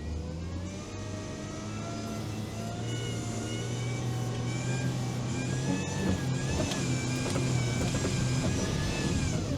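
All-terrain vehicle engine revving up and pulling hard as it climbs a steep slope, its pitch rising over the first few seconds and then held, with a few knocks and clatter from the vehicle about six seconds in.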